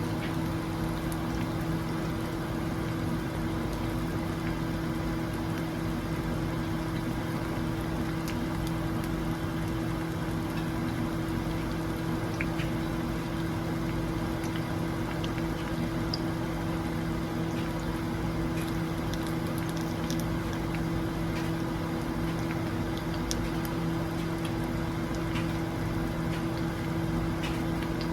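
Food sizzling in a pan: a steady hiss with scattered small pops and crackles, over a steady low hum.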